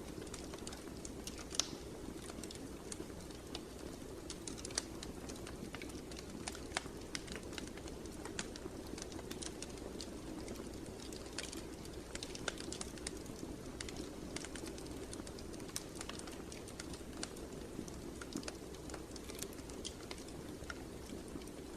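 Fire in a fireplace crackling: frequent irregular sharp pops over a steady low rush of flames.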